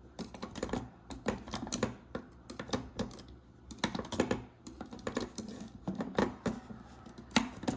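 Rapid, irregular plastic clicks and taps as a hook works a rubber-band bracelet off the pegs of a plastic Rainbow Loom.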